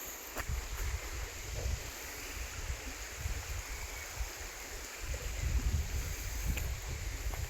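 Wind buffeting the microphone in gusts, as a low rumble, over the steady rush of a flowing river.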